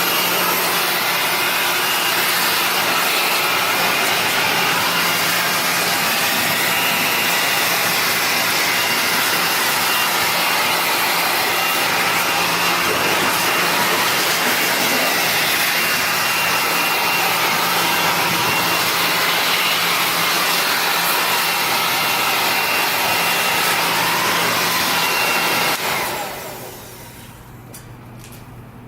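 Single-speed blower running steadily at its one high setting, with a constant whine over the rush of air, blowing dust out of a car's engine bay. It is switched off about 26 seconds in and winds down.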